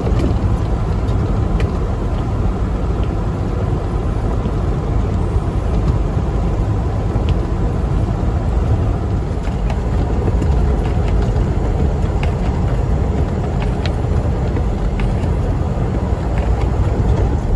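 Steady rumble of a semi truck heard from inside the cab, with engine and road noise strongest at the low end and a few faint ticks.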